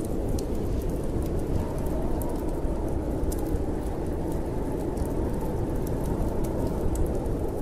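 Steady low rumble of a snowstorm wind, with scattered small sharp crackles of a wood fire burning in a fireplace.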